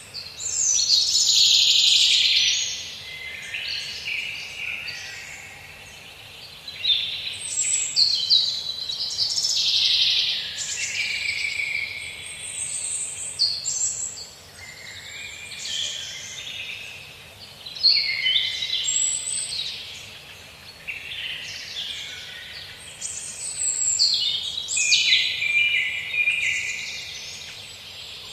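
Songbirds singing, a near-continuous run of high-pitched chirping phrases that overlap and rise and fall in loudness.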